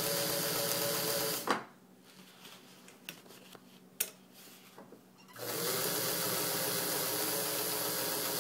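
Pfaff 130 sewing machine running steadily while stitching through four layers of car-cover fabric. It stops with a clunk about a second and a half in, a few small clicks follow, and it starts running again about five seconds in.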